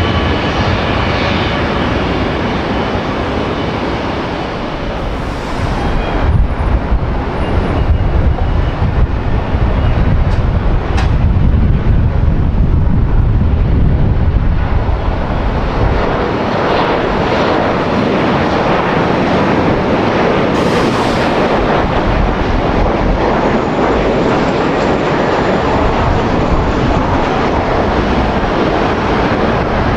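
Jet airliner engines running loud and steady, deep and rumbling for the first half, then brighter and hissier from about halfway through.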